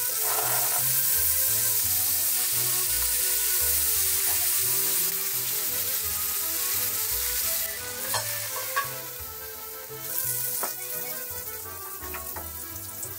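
Brussels sprouts and caramelized onions sizzling in a hot cast-iron skillet. The sizzle is strong at first and drops away about eight seconds in.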